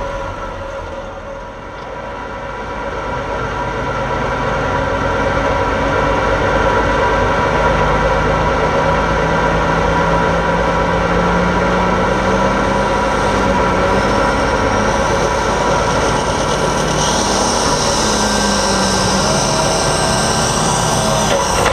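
Light super stock pulling tractor's engine running hard. It builds over the first few seconds, then holds loud and steady, and a high whine joins in during the second half.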